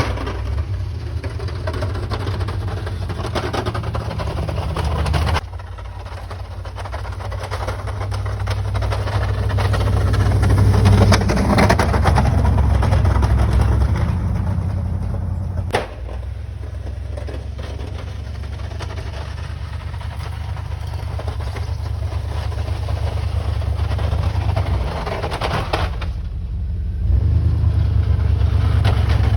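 Plow truck engine running with a steady low drone. The loudness drops suddenly about five seconds in and again around sixteen seconds, climbs slowly back each time, and rises again near the end.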